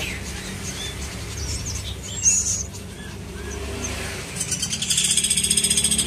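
Small birds chirping: one short high chirp about two seconds in, then a fast run of evenly spaced high chirps from about four seconds in. Underneath runs a low rumble of passing motorbike traffic.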